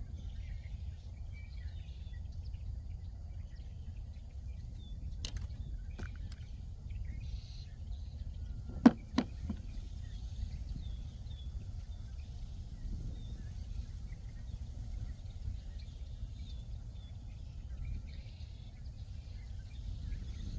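Steady low outdoor background rumble with faint high chirping calls, broken by a few sharp clicks and, about nine seconds in, two loud knocks in quick succession.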